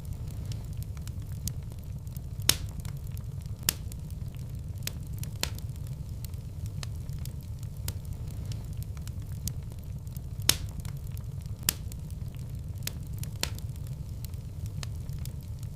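Wood fire burning in a fireplace: a steady low rumble with scattered sharp crackles and pops, two louder pops coming about two and a half and ten and a half seconds in.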